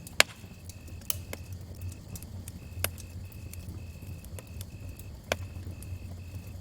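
Campfire crackling with sharp pops, the loudest just after the start and others near one, three and five seconds in, over a low steady rumble. Crickets chirp in an even, pulsing rhythm of about two to three chirps a second.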